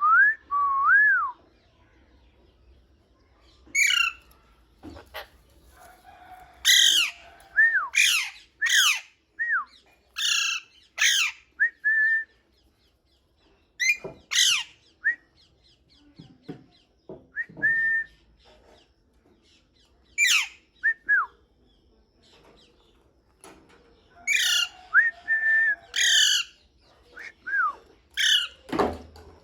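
Pet parrot whistling and calling in short bursts: gliding whistled notes mixed with sharp, harsh calls, in clusters separated by pauses of a few seconds.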